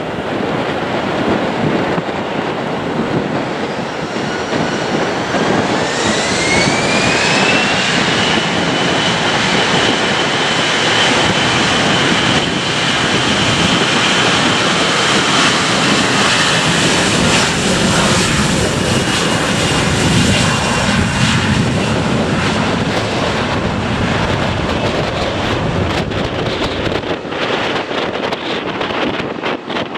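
Jet airliner engines spooling up: a whine rises in pitch over a few seconds, then holds steady over a heavy rush of engine noise, as at takeoff power. The whine fades out later on.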